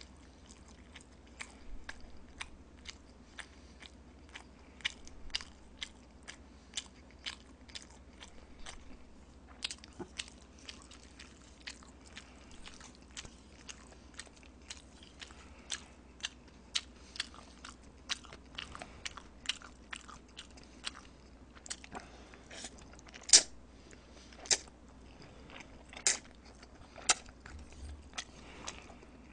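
Close-miked chewing and mouth smacking of swollen, stiffened Chapagetti black-bean instant noodles: a string of short wet clicks, about two a second, with a few louder smacks in the last third.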